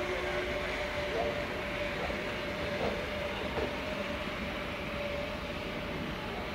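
Train passing by with a steady rolling rumble and a steady thin whine over it. The last of a horn blast fades out about a second in.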